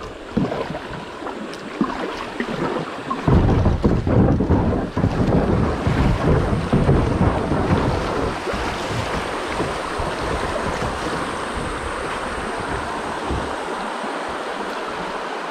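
Water rushing through a shallow creek rapid as a kayak runs it, with a heavy low rumble from about three seconds in that eases into a steady rush near the middle.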